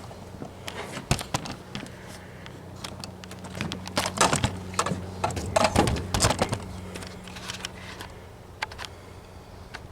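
Scattered metal clanks, clicks and rattles of hand work on a riding mower's idler pulley assembly, heaviest around the middle, over a steady low hum.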